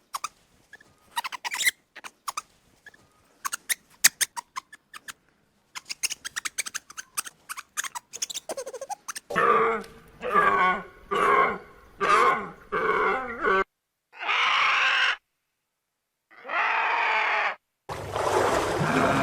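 A sequence of animal sounds cut from separate clips. For the first half there are rapid short squeaks and clicks. Then come several pitched calls about half a second each, two longer calls after brief silences, and a noisy rushing sound near the end.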